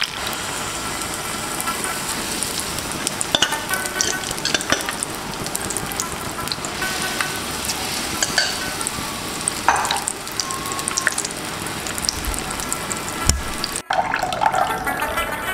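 Batter fritters (long chiray) deep-frying in hot oil in a pan: a steady crackling sizzle with scattered small pops. It breaks off briefly near the end.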